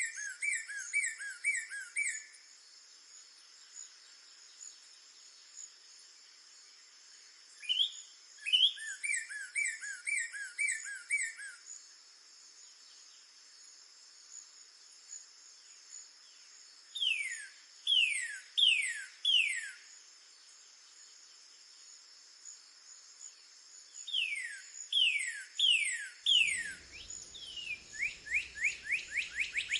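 Northern cardinal singing in several phrases separated by pauses: runs of repeated whistled notes, then loud down-slurred whistles, ending in a fast run of down-slurs. A steady high insect drone, like crickets, runs underneath.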